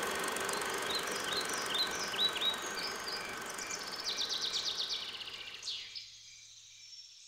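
Birdsong: a series of short chirps, then a fast trill, over a steady background, fading out near the end.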